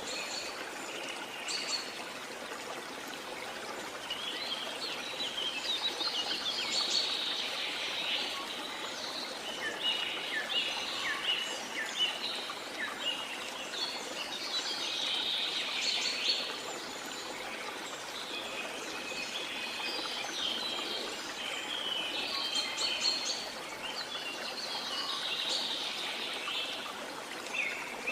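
Rainforest ambience: a steady hiss of falling or running water with many birds chirping and trilling over it in repeated bursts.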